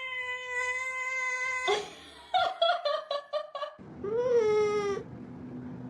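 A cat yowling: one long drawn-out yowl, a stretch of short broken sounds, then a shorter yowl that rises and falls about four seconds in.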